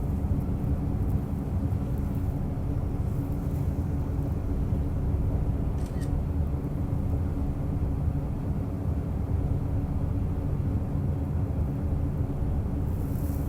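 Diesel railcar running at steady speed: a constant engine drone under the rumble of the wheels on the rails, with a faint click about six seconds in and a brief hiss near the end.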